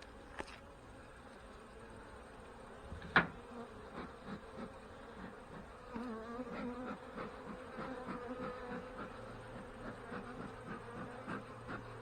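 Honey bees buzzing around an opened hive, the buzz wavering and growing louder about halfway through. A single sharp knock about three seconds in, with a fainter click just before.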